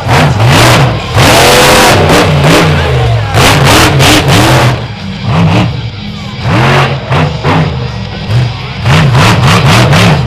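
Monster truck engine revving hard, its pitch sweeping up and falling back again and again in quick, uneven blips.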